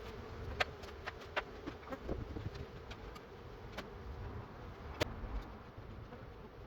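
Many honeybees buzzing together in a steady hum, a colony stirred up as it is driven off its comb. About five sharp clicks stand out over the buzz.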